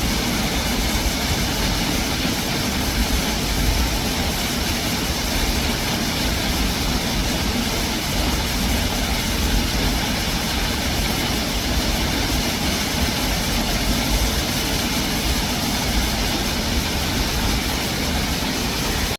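Waterfall roaring, a steady, unbroken rush of falling water.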